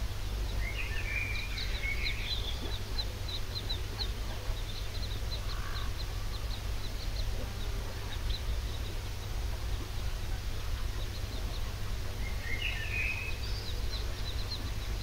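Birds chirping over a steady low rumble: a run of short, high chirps, with a brief cluster of lower calls about a second in and again near the end.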